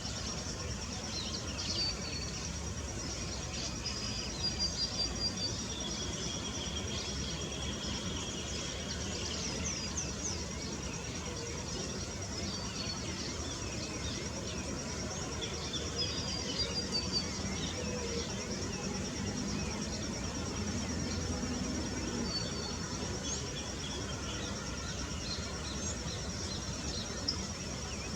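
A steady high-pitched insect trill with scattered chirps and short whistled calls of small birds, over a low background rumble.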